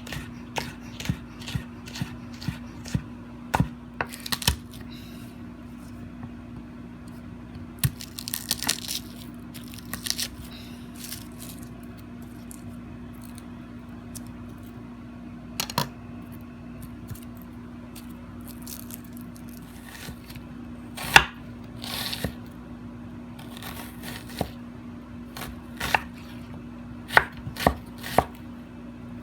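Knife cutting food on a cutting board: irregular taps and knocks, some louder strikes later on, over a steady low hum.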